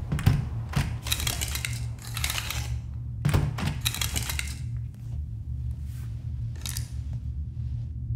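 Curtains being drawn open: fabric swishing and curtain runners rattling along the rail in a string of short pulls, over a steady low hum.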